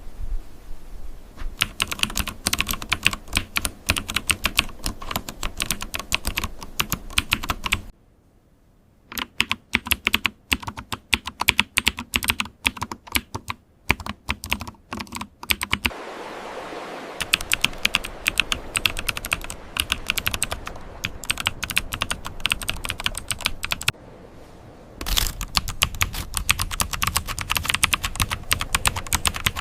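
Typing on a computer keyboard: rapid runs of key clicks in four separate takes, each a few seconds long with a brief break between them. The second take has sparser, more separate strokes, and the third has a steady hiss under the clicks.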